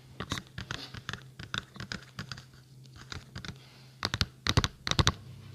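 ASMR tapping and scratching close to the microphone: quick, irregular taps, with a louder run of taps about four seconds in.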